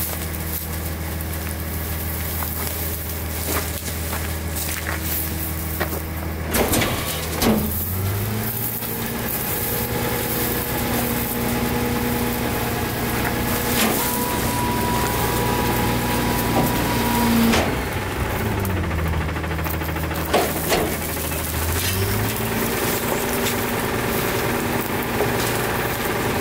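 Natural-gas engine of an Autocar ACX rear-loading garbage truck idling, then speeding up and holding a higher steady speed twice, typical of the engine being throttled up to drive the Heil Durapack's hydraulic packer. A faint whine and a few sharp knocks come in while it runs fast.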